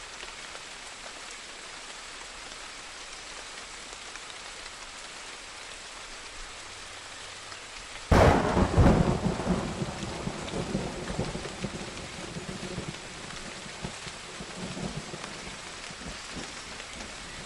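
Steady rain falling, then a sudden loud clap of thunder about eight seconds in that rolls on and slowly fades back into the rain.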